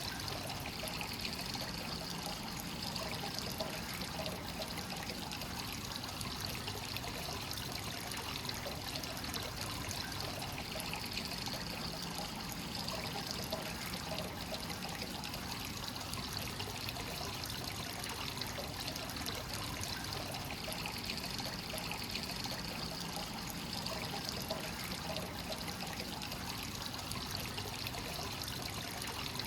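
Hot spring source water flowing continuously into a bath: a steady trickle and pour of water into water, swelling slightly about every ten seconds.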